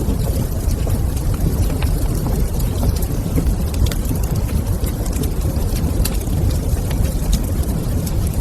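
Log fire burning in a stone fireplace: a steady low rumble with scattered small crackles and pops throughout.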